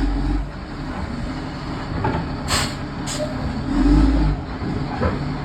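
Diesel engine of an LMTV truck chassis running at low speed as it is manoeuvred onto a trailer ramp, swelling near the start and again around four seconds in. Two short hisses come a little over halfway through.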